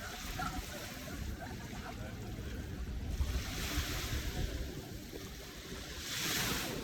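Ocean waves breaking and washing up the shore: a steady rushing wash that surges about three seconds in and again near the end.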